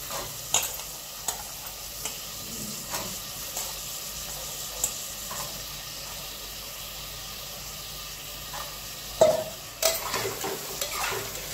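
Vegetables frying in spiced masala in an open pressure cooker, sizzling steadily, while a long steel spoon stirs them with scattered scraping clicks against the pot. Near the end the spoon gives one sharp knock on the cooker, followed by a few quick clicks.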